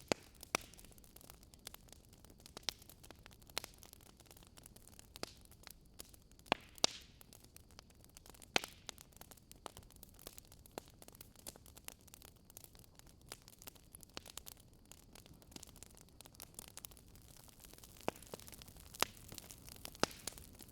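Campfire crackling: burning wood giving off irregular sharp pops and snaps, a few louder than the rest, over a soft steady hiss.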